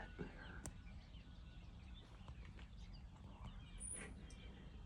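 Faint chirps and calls from small songbirds, scattered throughout, over a steady low rumble. A brief, very high note sounds about four seconds in.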